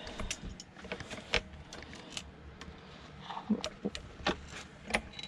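Irregular light clicks and knocks of metal parts and hand tools being handled while a sewing machine is dismantled.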